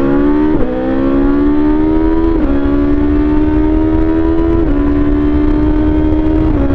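BMW S1000XR inline-four engine with an Akrapovic exhaust pulling hard under acceleration, the pitch climbing through each gear and dropping at four quick upshifts. The first drop is about half a second in and the last is near the end, with the climbs growing slower in the higher gears.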